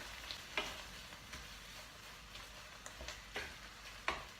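A spoon stirring chicken in spinach curry sauce in a hot pan, knocking against the pan a handful of times at irregular intervals over a faint sizzle.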